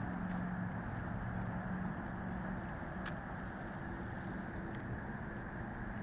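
Steady outdoor rumble of traffic, with a vehicle's low engine hum fading away over the first couple of seconds and a few faint clicks.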